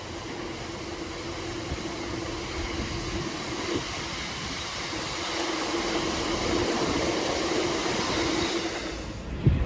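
Freight train hauled by a Class 66 diesel locomotive rolling past, a steady rumble of wagons on the rails with a constant hum, growing slowly louder. A sharp knock near the end.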